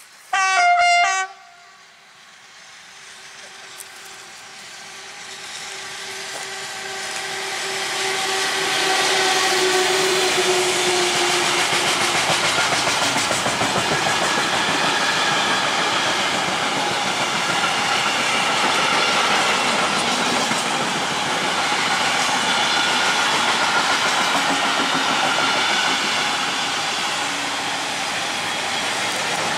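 Freight train passing at speed: the locomotive sounds a short, loud horn about half a second in, a steady hum from the locomotive fades as it goes by, and the long string of loaded container and flat wagons follows with a loud, steady rumble and clatter of wheels on the rails.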